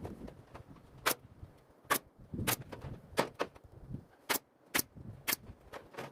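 A series of about eight sharp, irregularly spaced taps or clicks over five seconds, over a quiet background.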